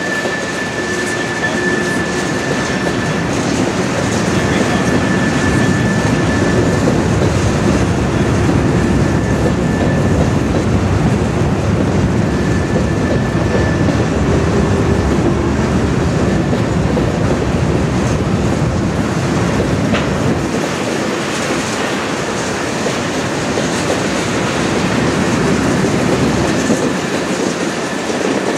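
Covered hopper cars of a freight train rolling by: a steady rumble of steel wheels on rail. A faint high wheel squeal comes and goes through the first half.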